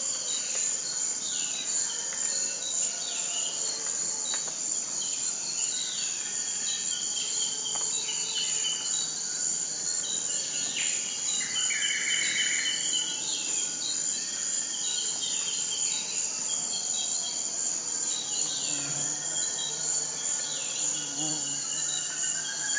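Insects shrilling in a steady, continuous high-pitched chorus, with short falling bird chirps scattered over it.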